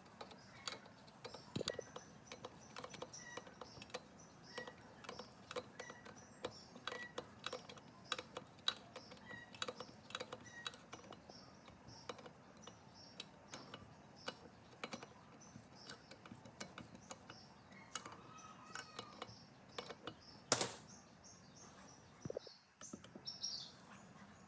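Irregular small clicks and taps, with birds chirping in the background and one sharper knock about twenty seconds in.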